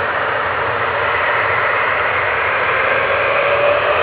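Steady hiss of radio static between transmissions, as on an open air-band receiver, with a faint tone slowly rising in pitch in the second half.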